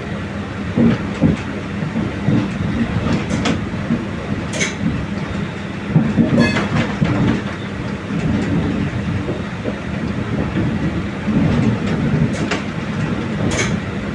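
Mumbai Mail express train running, its wheels giving a steady rumble on the track, with several short sharp clicks scattered through.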